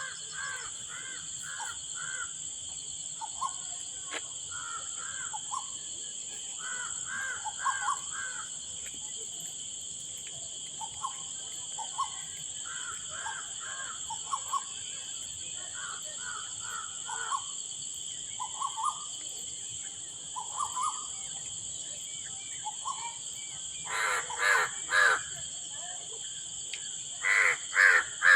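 Birds calling in repeated short series of three to five harsh calls, with the loudest series near the end, over a steady high-pitched drone.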